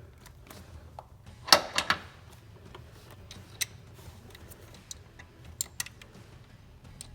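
Light clicks and taps of a replacement ignition coil and its mounting bolts being handled and set in place on the engine, with a cluster of louder knocks about a second and a half in.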